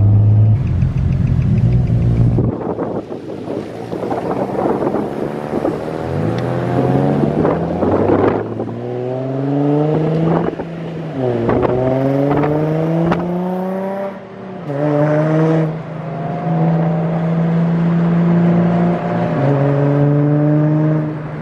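Car engine accelerating hard through the gears: the pitch climbs, drops sharply at each shift and climbs again several times, then settles into a steady cruise near the end.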